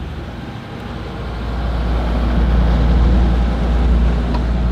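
Jet boat engine running with a steady low rumble that grows louder about a second in and then holds.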